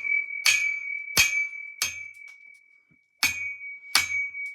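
A plastic DVD disc is slammed hard against a surface again and again, about five sharp hits with a pause of about a second in the middle. A high ringing tone carries on between the hits.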